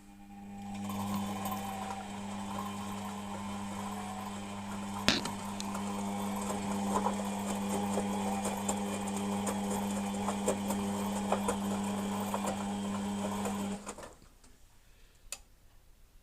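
Beko WMP 601 W washing machine's motor turning the drum in a wash tumble: a steady hum that builds up in the first second, with scratchy grinding and scattered clicks, one sharp crack about five seconds in, then stops suddenly about fourteen seconds in. The grinding comes when the drum turns on the wash and not on spin; its cause is unknown to the owner.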